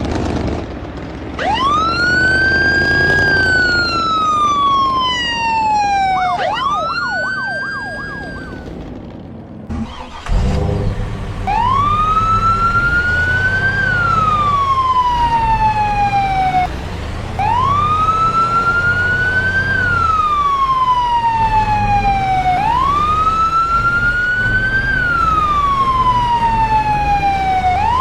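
Wailing emergency-vehicle siren, each wail rising then falling slowly over about five to six seconds and repeating steadily, over a low engine rumble. A sudden loud onset about ten seconds in starts the run of even wails; before it comes one longer wail with a flurry of quick short whoops.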